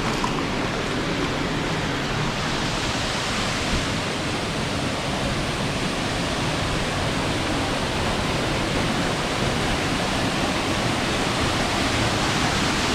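Small waterfall, about 12 feet high, with a steady rush of falling water.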